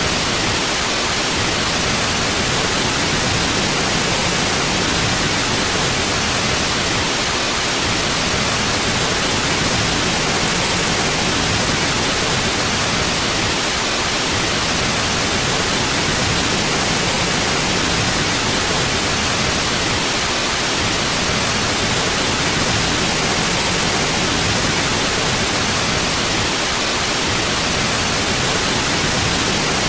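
Steady, unchanging white noise: an even hiss, loudest in the upper range up to a sharp cutoff, with no other sounds.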